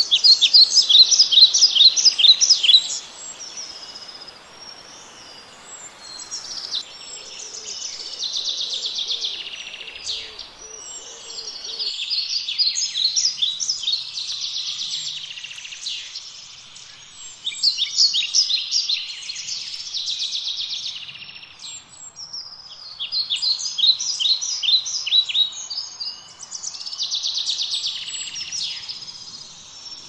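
Songbirds singing: high, rapid trilling song phrases, each two to three seconds long, repeated with short pauses. The first phrase is the loudest.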